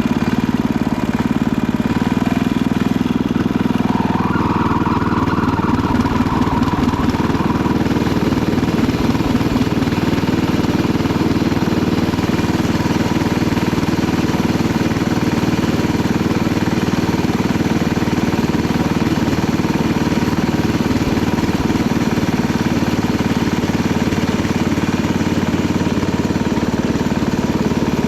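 Panzer T70 garden tractor's engine running steadily, with a brief higher tone over it about four seconds in.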